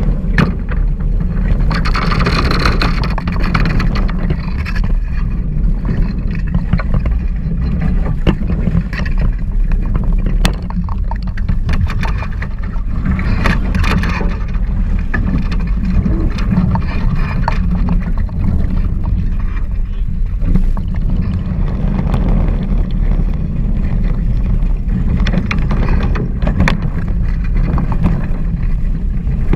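Wind buffeting the microphone and water rushing past the hulls of a Hobie 16 catamaran under sail. A few louder splashes of spray come through at intervals.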